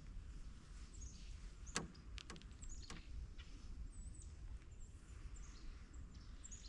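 Several short, high, downward-sliding bird chirps over a low steady rumble, with three sharp clicks about two to three seconds in, the first the loudest.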